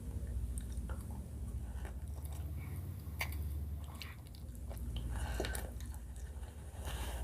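Close-miked chewing and biting of sushi salad: irregular small wet clicks and mouth sounds over a steady low hum.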